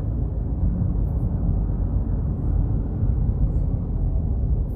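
A car driving, heard from inside: a steady low rumble of road and engine noise.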